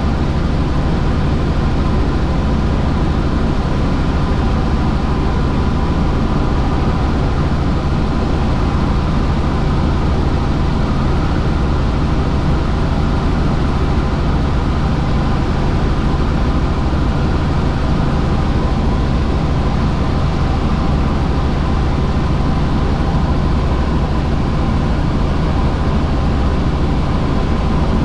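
Helicopter in steady flight heard from on board: constant engine and rotor noise with steady whining tones, unchanging throughout.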